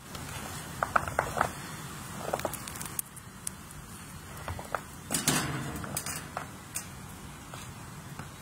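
Faint outdoor background noise with scattered light clicks and crackles, a few of them clustered about a second in and again around five seconds in.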